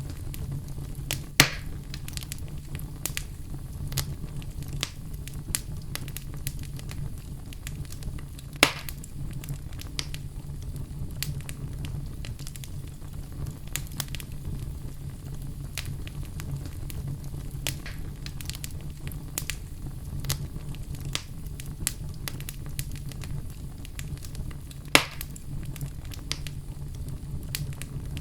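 Wood fire in a fireplace crackling steadily, with a low rumble underneath and many small snaps. Three louder pops stand out: one about a second and a half in, one about nine seconds in, and one near the end.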